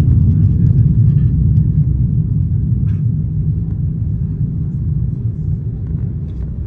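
Deep, steady rumble of an Airbus A330-200 heard from inside the cabin, easing slightly toward the end, with a few faint clicks.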